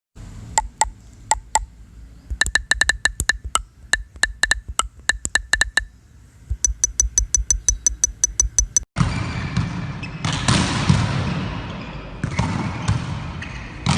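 Sharp ringing hits, several a second, in runs for about nine seconds. Then an abrupt switch to a busy sports-hall din of volleyballs being struck and bouncing, with voices.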